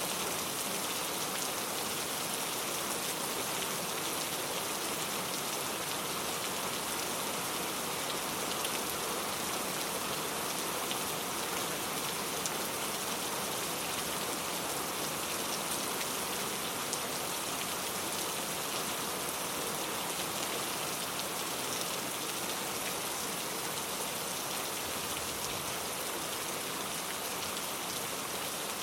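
Heavy rain falling steadily, a dense even hiss with scattered patter of drops.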